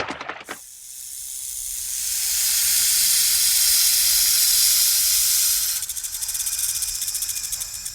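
An animal hissing: one long, steady hiss that swells over the first couple of seconds, holds, and takes on a rapid flutter near the end.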